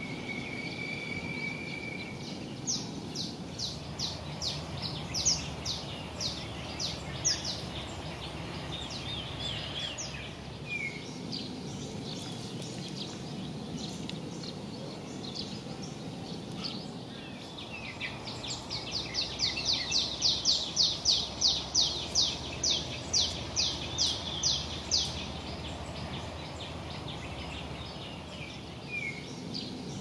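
Wild birds calling over steady outdoor background noise. A slow series of short, high, down-slurred notes comes at about two a second. Past the middle comes a longer, faster run of the same kind of notes, the loudest part.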